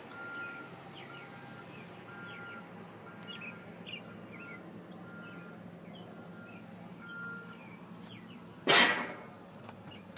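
A steady electronic beep repeating a bit faster than once a second, with birds chirping over a faint low hum. One sudden loud crunch about nine seconds in, likely a step on the debris.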